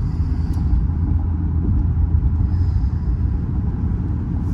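Steady low rumble of a 2015 Infiniti Q50 on the move, heard inside the cabin: its 3.7-litre VQ V6 engine and tyre noise at cruising speed.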